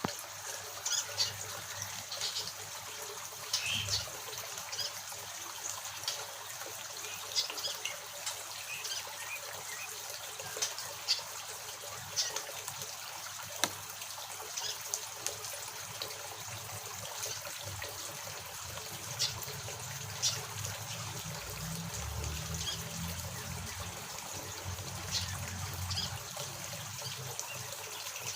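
Small aviary birds giving short, scattered chirps over a steady trickle of water.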